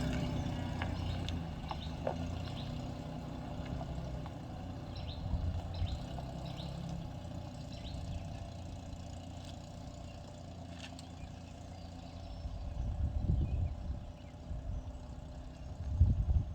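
A vehicle engine running with a steady low hum that fades somewhat midway, then irregular low rumbling swells twice near the end.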